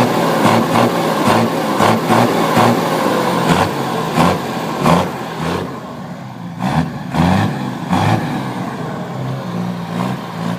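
Mercedes-Benz 1117 truck's diesel engine running, its sound pulsing unevenly and growing quieter about halfway through, then picking up again in a few short bursts.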